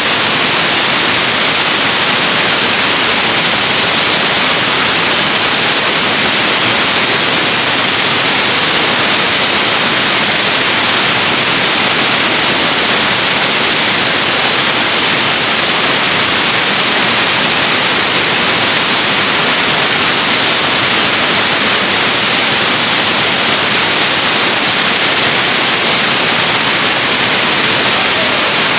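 Waterfall: a steady, loud rush of falling water, an even hiss weighted toward the high end, unchanging throughout.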